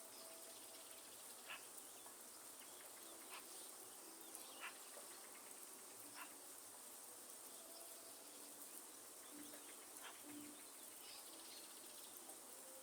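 Faint rainforest ambience: light rain with scattered sharp drips, a steady high-pitched insect drone, and short low bird calls now and then.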